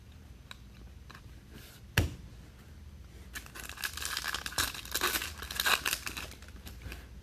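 Foil wrapper of a Topps Chrome baseball card pack being torn open and crinkled. A single sharp click comes about two seconds in.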